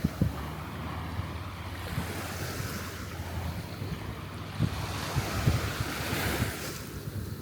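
Surf washing onto the beach, with wind buffeting the microphone in low rumbling thumps; a wave's hiss swells up about six seconds in.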